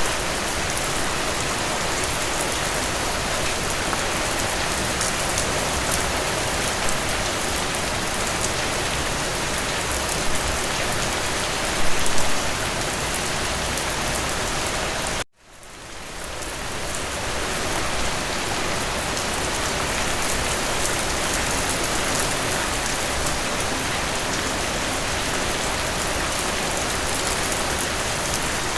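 Steady rain falling, an even hiss of many drops. About fifteen seconds in, the rain cuts out suddenly and fades back in over a couple of seconds.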